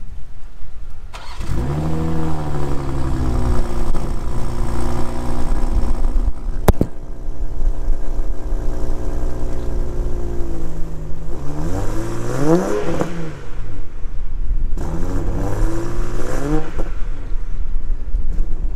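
BMW X7 40i's turbocharged inline-six, heard at the exhaust tips, starts about a second in with a brief flare, settles into idle, then is revved twice, rising and falling each time. A single sharp click sounds during the idle.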